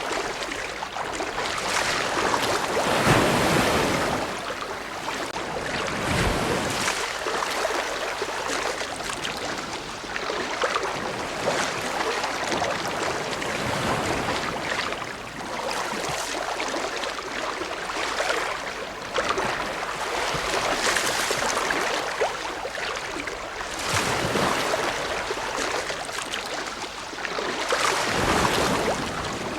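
Ocean waves breaking and washing on a shore, a steady rush of surf that swells with each wave every few seconds.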